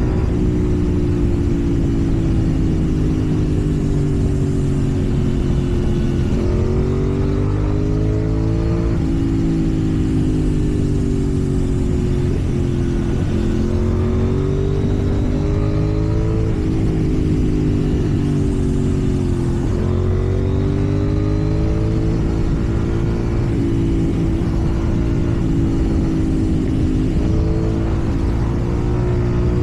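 KTM Duke 790's parallel-twin engine running under way, its note rising and falling several times as the rider opens and rolls off the throttle, then holding fairly steady near the end.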